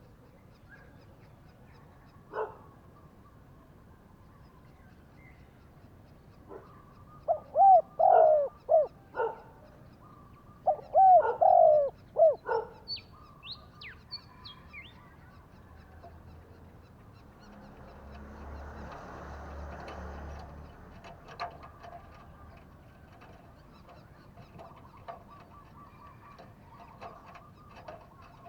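Spotted dove cooing: two loud phrases of several coos each, a couple of seconds apart. A few high, thin chirps from a small bird follow just after.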